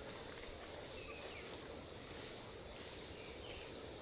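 Steady high-pitched drone of insects, crickets or cicadas, in tropical forest, with a couple of faint short chirps about a second in and near the end.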